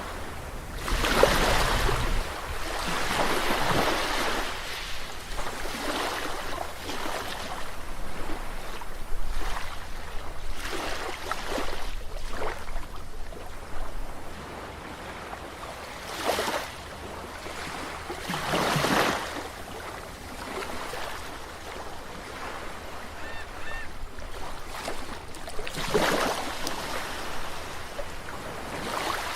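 Ocean waves breaking and washing up a shore, swelling and fading in separate surges every few seconds over a steady low rumble of surf.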